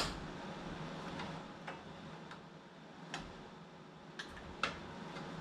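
Steady low hum of space heaters, with about seven sharp clicks at irregular intervals, the loudest right at the start and a little before five seconds in.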